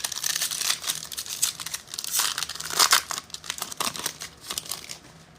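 Plastic wrapper of a pack of Panini Score football cards being torn open, with dense crinkling and crackling, which thins out near the end.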